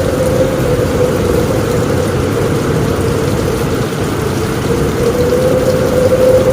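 Steady heavy rain on a roof with strong wind, a dense low rushing noise, with a faint steady whine from the wind that fades and returns near the end.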